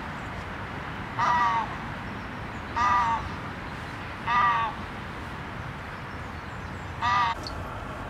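A bird calling four times at uneven intervals, each call short and clear-pitched, over a steady outdoor hiss.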